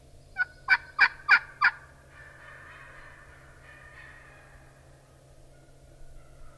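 A series of five loud, sharp turkey yelps, about three a second, followed by a fainter drawn-out turkey sound lasting about two seconds.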